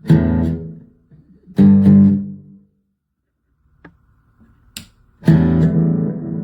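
Electric guitar chords played through a Donner delay and reverb pedal into an amp: two strummed chords that each die away within about a second, then a short silence with a couple of clicks, and a third chord that rings on.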